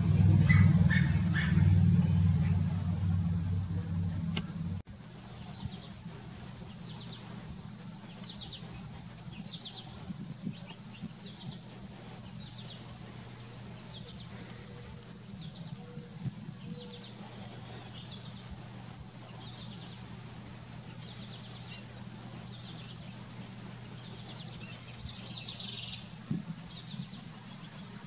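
A steady low hum, like a vehicle engine, for the first few seconds, then small birds chirping: short high notes about once a second, with a quick cluster of chirps near the end.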